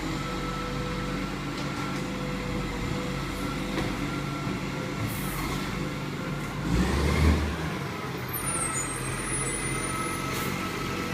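Rubbish truck's diesel engine running steadily, with a louder low surge about two-thirds of the way through.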